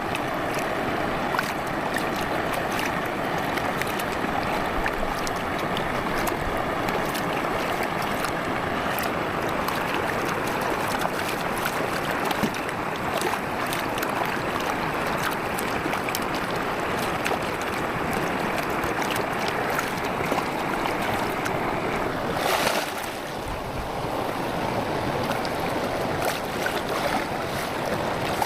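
Campfire crackling, with many small pops and snaps over a steady rushing background. There is a brief swell about two-thirds of the way through, after which the sound is slightly quieter.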